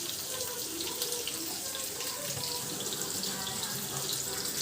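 Onions, green chillies and mint leaves sizzling in hot oil in a frying pan, a steady hiss.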